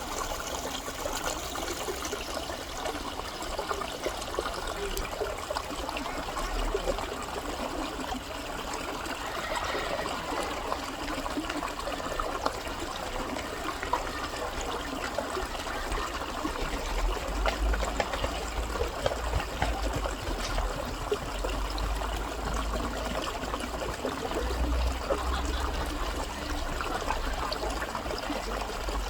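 Shallow stream water running steadily over rocks, a continuous trickling babble. A low rumble comes and goes through the second half.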